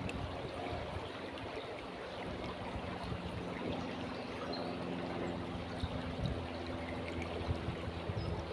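River water flowing steadily, with a low, steady hum underneath that grows stronger from about three seconds in. A few faint bird chirps.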